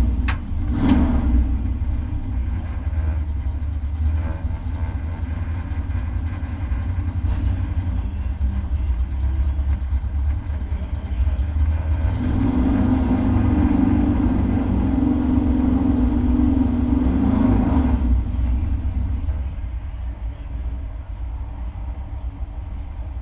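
Race truck's engine heard from inside the cab: a steady low drone that grows louder for several seconds in the middle, then drops back quieter near the end.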